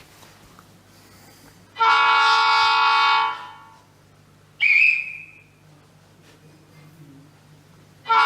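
Train horn sound effect from the Lego Powered Up app, played through a phone or tablet speaker. It sounds for about a second and a half, a short high-pitched sound effect follows about two seconds later, and the horn starts again near the end.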